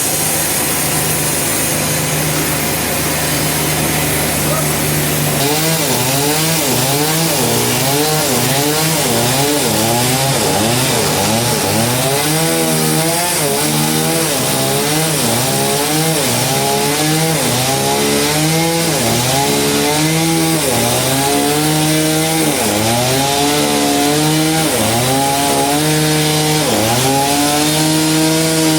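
A power saw cutting through a giant trembesi log. From about five seconds in, the motor's pitch repeatedly dips and recovers, roughly once a second, as it labours under load.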